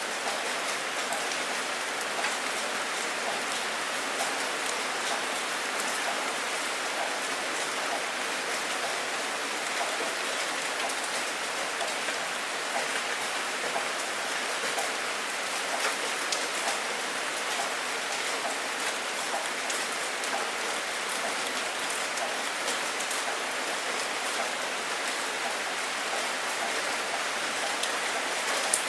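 Steady rain falling and pattering on a surface, an even hiss with many small drop ticks throughout.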